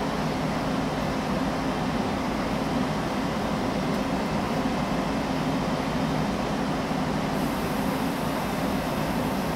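Frecciarossa ETR 500 high-speed train standing at the platform, its power car and coaches humming steadily with their fans and auxiliary systems running.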